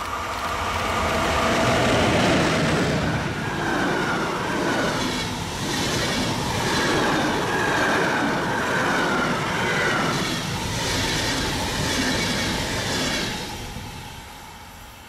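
A train passing close by on steel rails. The rolling noise builds over the first two seconds, holds for about eleven seconds with a wavering high squeal from the wheels, and fades away near the end.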